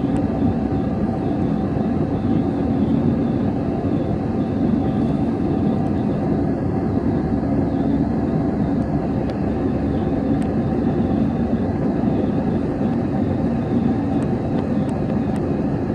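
Jet airliner engine noise: a steady, even drone with no rise or fall.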